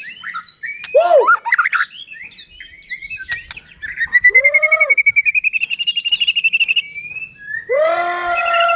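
White-rumped shama (murai batu) singing a varied song: short whistled phrases in the first seconds, then a fast run of repeated notes from about four seconds in to about seven, and a loud, full held whistle near the end.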